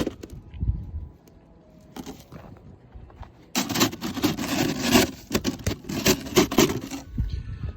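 Rapid, repeated scraping of ice frozen onto a car, running for about three seconds from a little past the midpoint. The bottom layer is stuck fast and does not come off.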